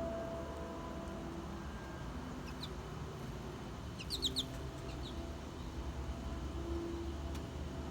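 A small bird giving a few short, high chirps, one alone and then a quick cluster of three or four about four seconds in, over a steady low background hum.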